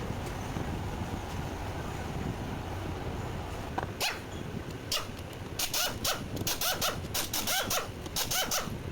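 A dog barking: a quick run of short barks, several a second, starting about four seconds in, over a steady low background rumble.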